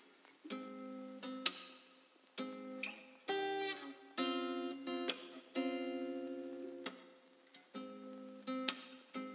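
Background music of guitar chords, each struck and ringing out for about a second before the next.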